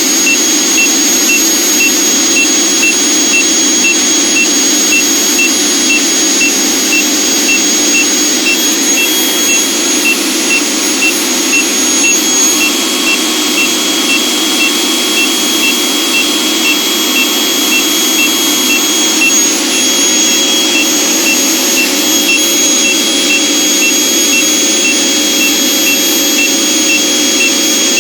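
Vacuum cleaner running steadily, with a field meter's alarm beeping about twice a second over it. The meter's buzzer is signalling a reading above its danger threshold.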